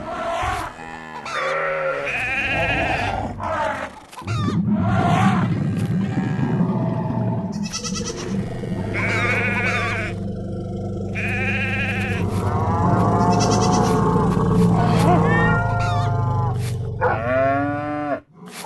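Animal calls, many short ones in quick succession, with music playing underneath.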